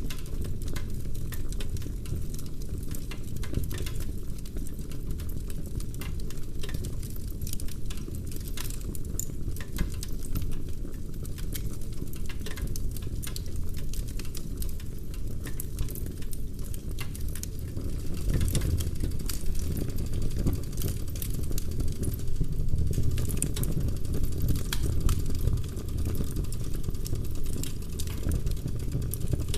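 Wood fire burning in a fireplace: burning logs crackling and popping in quick, irregular snaps over a steady low rumble of the flames, getting a little louder about two-thirds of the way through.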